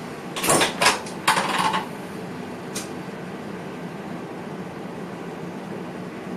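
Steady running hum in the driver's cab of an NS VIRM train, broken from about half a second in by a burst of sharp metallic clinks and rattles lasting just over a second, then a single click a second later.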